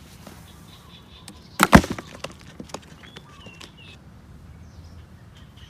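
A loud, sharp clatter of knocks about a second and a half in, followed by a few lighter clicks.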